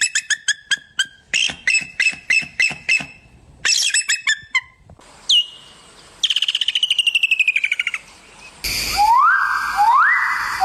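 Birds calling: several different chirp series follow one another with abrupt changes, from rapid repeated chirps to a single falling whistle. Near the end come three rising whistles.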